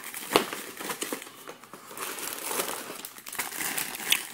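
Packaging crinkling and rustling as hanks of paracord are handled and pulled out during unboxing, with sharp crackles, the loudest about half a second in and another near the end.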